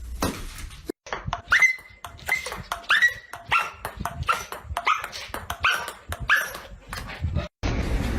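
A dog barking in a string of about ten short, high-pitched yips, each rising at the start.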